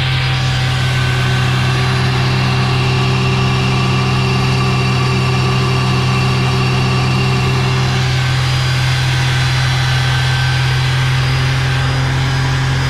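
Mazda RX-8's two-rotor Renesis rotary engine held steady at raised revs, around 4,000 rpm, in a warm-up run meant to warm up the engine's ports. The engine note stays at one pitch and one level throughout.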